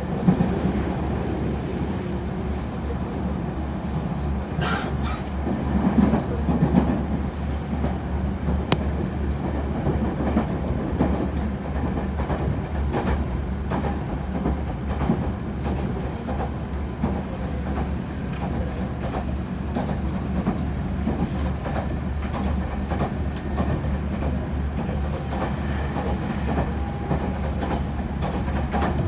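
Local electric train running at speed, heard from inside the passenger car: a steady low rumble with the wheels clicking over rail joints.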